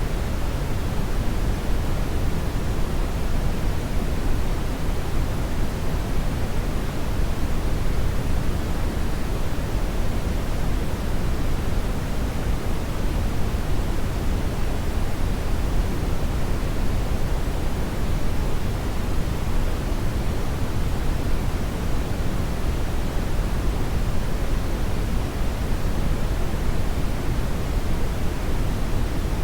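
Hair dryer running steadily: an unbroken, even rushing of air, heaviest in the low end, with no change in speed or pitch.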